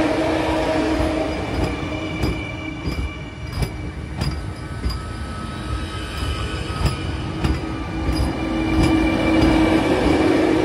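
Vande Bharat Express electric multiple-unit train departing and rolling past close by, its wheels clicking now and then over rail joints above a steady hum.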